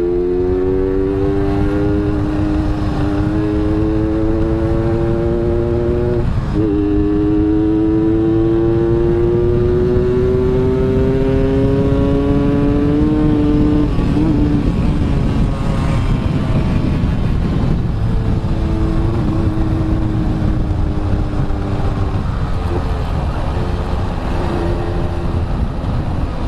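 Yamaha RX-King's single-cylinder two-stroke engine under way, accelerating: its pitch climbs, drops sharply at a gear change about six seconds in, climbs again for several seconds, then falls away as the throttle is eased, over a steady rush of wind and road noise. Later the engine holds a lower steady note.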